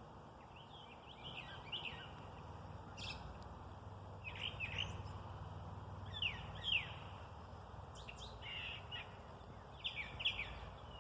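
Songbirds chirping on and off, short quick notes, many falling in pitch, over a steady low background rumble.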